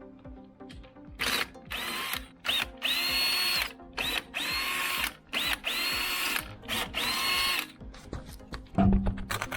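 A cordless drill run in a series of short trigger pulls, its motor whining up to speed each time and holding briefly, six or seven times; a dull thump follows near the end.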